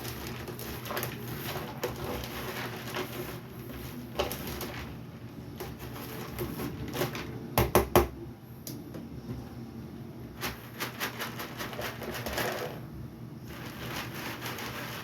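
Wood-pellet cat litter rattling and clattering in a sifting cat box as it is shaken back and forth and stirred, letting the sawdust fall through the holes. A few louder knocks come about halfway through.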